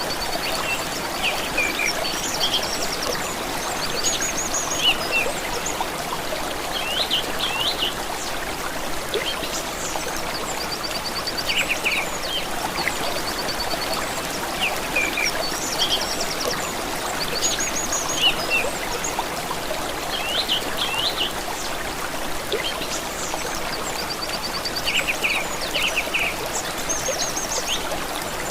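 Small stream trickling steadily, with songbirds calling over it: high rapid trills and quick chirps that come again every few seconds.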